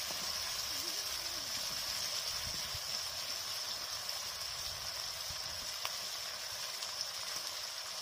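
Curry masala frying in oil in a metal kadai: a steady sizzling hiss, with a couple of faint ticks near the end.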